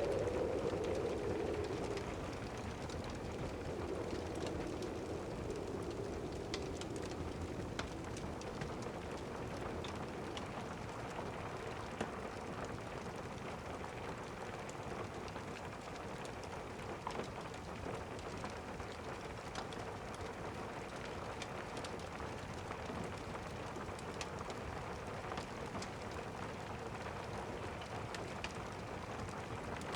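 Steady rain pattering, with a few faint scattered clicks. A low rumble of distant thunder dies away over the first few seconds.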